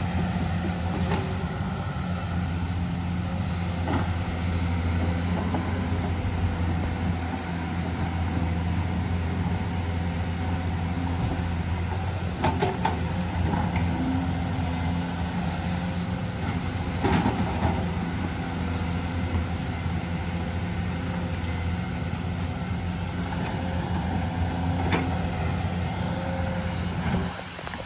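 Hyundai excavator's diesel engine running steadily under work, with a few sharp knocks and clanks scattered through.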